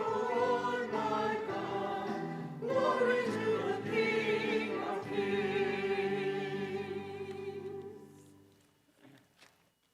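Congregation and choir singing the closing phrase of a hymn with accompaniment, holding the final chord, which fades out about eight seconds in; a few faint short sounds follow.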